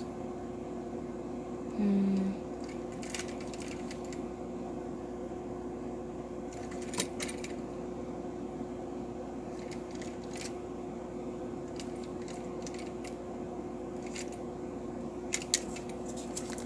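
A few light clicks and taps from handling a plastic toy train, over a steady background hum.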